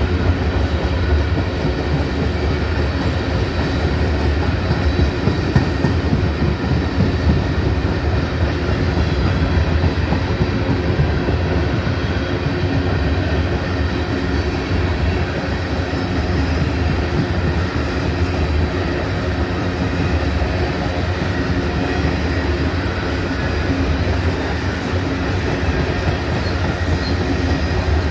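Long freight train's cars rolling past close by, a steady rumble of wheels on rail with clatter from the trucks.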